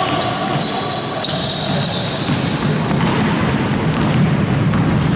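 Basketball game play in a gym: sneakers squeaking on the court in many short high-pitched squeaks over a steady din of ball bounces and players moving, echoing in the hall.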